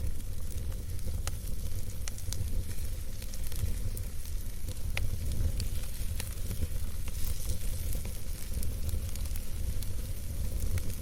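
Wood campfire burning with a steady low rumble and hiss, dotted with frequent sharp crackles and pops from the burning wood.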